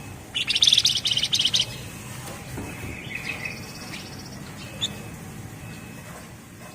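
Javan fulvetta (flamboyan, wergan Jawa) singing: a loud, dense, rapid rattling trill starting about half a second in and lasting about a second. After it come softer, finer high trills and a single short high note.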